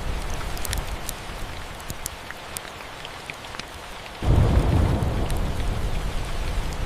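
Steady rain with rolling thunder: a low rumble dies away over the first few seconds, then a new peal breaks in suddenly a little over four seconds in and slowly fades. Scattered sharp ticks run throughout.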